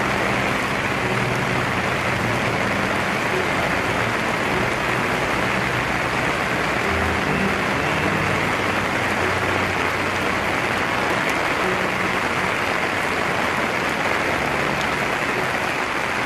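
Heavy tropical downpour: a steady, dense hiss of rain pouring onto pavement and standing floodwater.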